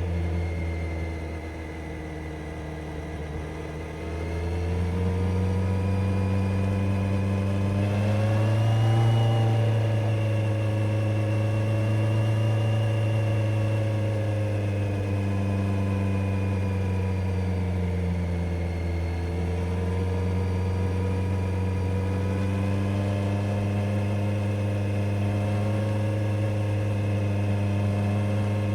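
Kawasaki Z900's inline-four engine and exhaust under way. The note eases off about a second in, picks up again around four seconds, rises to a peak near nine seconds, then holds fairly steady with gentle rises and falls in revs.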